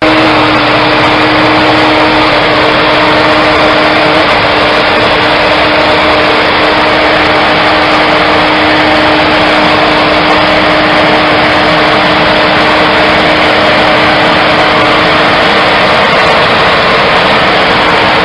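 A vehicle engine running loud and steady, with a constant droning tone over a rough mechanical noise. It starts abruptly at full level.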